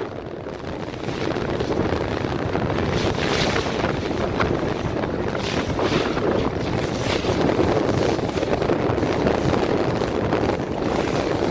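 Wind buffeting the microphone in gusts over the steady noise of a boat and the water around it.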